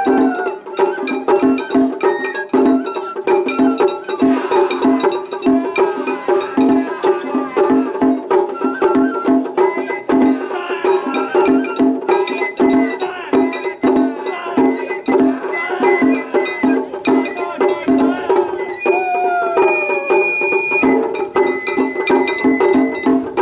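Japanese festival hayashi music: taiko drums beaten in a fast, steady rhythm, with a bamboo flute playing long high notes over it.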